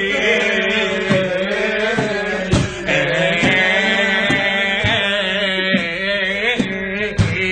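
Arabic singing: a voice holding long, wavering, ornamented notes without clear words, accompanied by scattered drum strokes.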